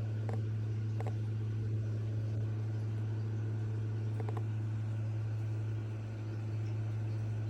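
Short clicking chirps from a leachie gecko (New Caledonian giant gecko): two about a second apart at the start and a quick double near the middle, over a steady low hum.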